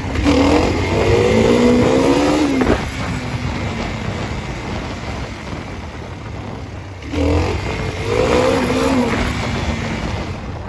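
Dirt bike engine accelerating twice, its pitch rising as it revs up: the first run ends with a sudden drop off the throttle a little under 3 seconds in, and the second starts about 7 seconds in and fades away, with a steady rumble and wind noise between.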